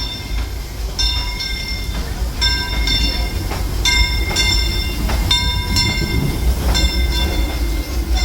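Steam locomotive bell ringing in a steady series of strokes, over the low rumble of the Disneyland Railroad train rolling on the track.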